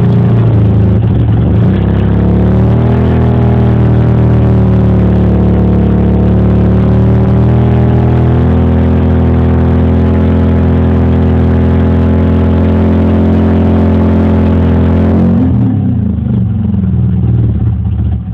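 1991 Mazda RX-7's 1.3 L 13B rotary engine idling just after a cold start. The idle wavers for the first few seconds, settles into a steady note, then sags and wavers about three seconds before the end and drops away sharply. The car fails to go into its high-idle warm-up cycle, which the owner says it does on every start since coming back from the body shop.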